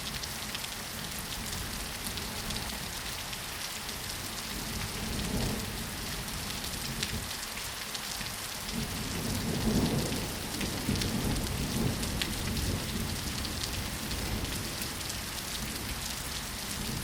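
Steady rainfall with fine drop ticks. About halfway through, a low rumble of thunder swells up and fades away over a few seconds.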